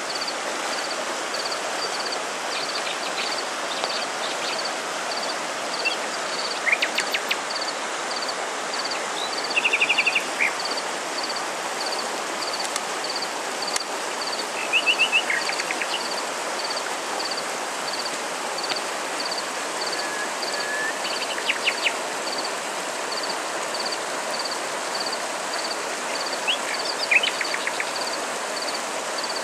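Outdoor nature ambience: a steady rushing hiss, with an insect chirping high and evenly about twice a second. Short bird calls break in five times.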